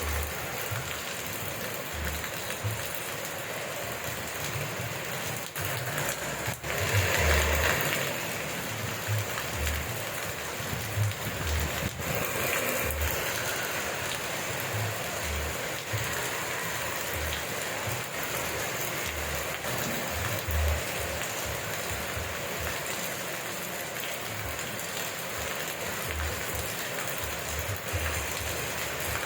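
Steady rain falling as an even hiss, swelling louder briefly about seven seconds in.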